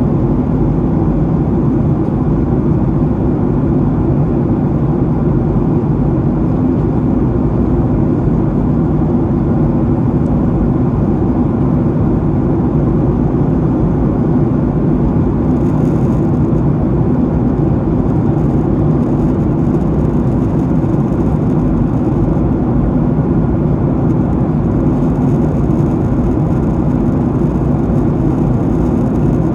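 Steady drone of a Boeing 737-800 in flight as heard inside the cabin behind the wing: the CFM56-7B turbofans and the rush of air over the fuselage blend into one even, low roar with no change in pitch.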